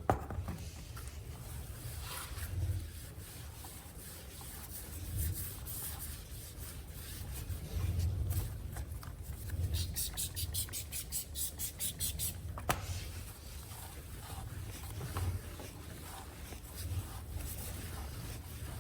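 Cloth rubbing and wiping chain-lube grease off a motorcycle wheel, with a quick run of brisk scrubbing strokes about ten seconds in and a single sharp click a little later.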